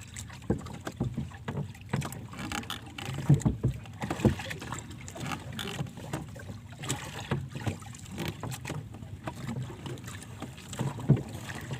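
Water lapping and knocking against the hull of a small boat, with wind on the microphone and scattered clicks and knocks. Louder thumps come about three, four and eleven seconds in.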